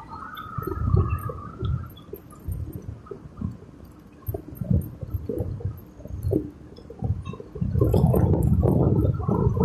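Wind buffeting the microphone in uneven low gusts, turning much louder and steadier near the end.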